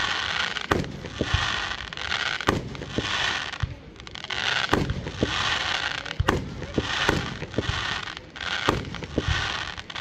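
Aerial fireworks going off: many sharp bangs at irregular intervals from shells launching and bursting, with spells of hissing crackle that swell up roughly every two seconds.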